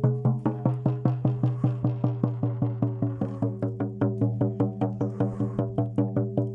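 Rhythmic ritual music: an even drumbeat of about four strikes a second over a steady low drone.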